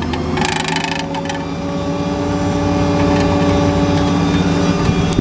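Truck-mounted service air compressor switched on: a short hiss about half a second in, then the compressor running with a steady hum that grows louder over the next couple of seconds and holds.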